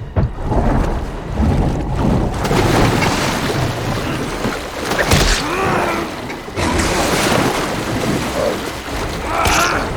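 Film sound mix of storm and rushing water with deep booms and a few sudden loud hits, around five and about nine and a half seconds in, under dramatic music.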